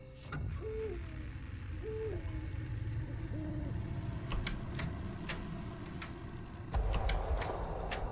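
An owl hooting three times over a low rumble, then a run of sharp clicks and a louder rattling noise near the end.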